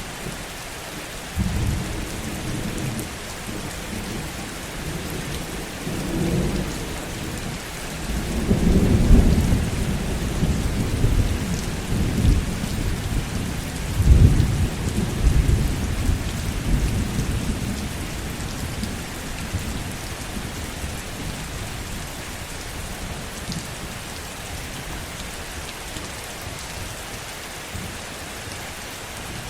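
Steady heavy rain with a long, low rumble of thunder. The thunder builds a couple of seconds in, swells to two peaks in the middle and fades away in the second half, leaving only the rain.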